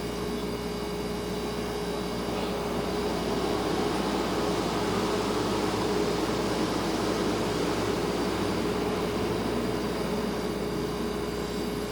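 Refrigerator running with a steady hum and one constant mid-pitched tone over a low, even drone. A broader rumble swells slightly in the middle and eases off again.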